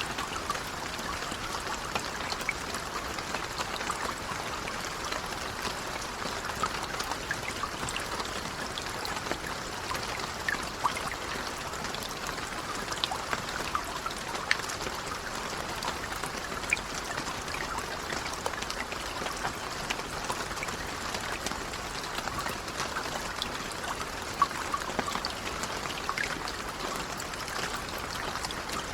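Steady gentle rain, a constant patter with scattered individual drops ticking sharply throughout.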